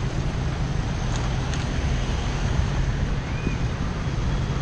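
Wind rushing over the microphone of a moving bicycle rider, a steady low rumbling noise, with a couple of faint clicks about a second in.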